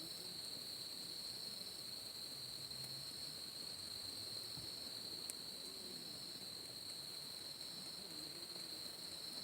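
Steady, unbroken high-pitched trilling of insects. There is a single faint click about five seconds in.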